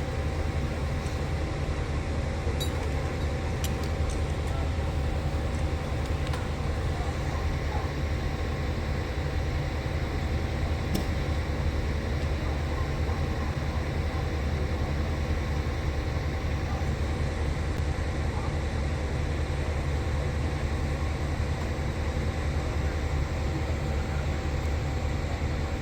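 Steady low rumble of an idling vehicle engine, unchanging throughout, with a few faint steady tones above it.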